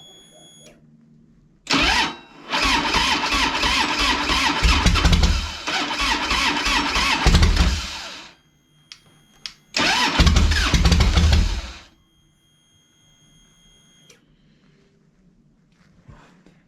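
Harley-Davidson motorcycle's electric starter cranking the engine in two tries, about six seconds and then about two, turning it over rhythmically without it catching. The engine fails to start, which the owner guesses is from being out of fuel.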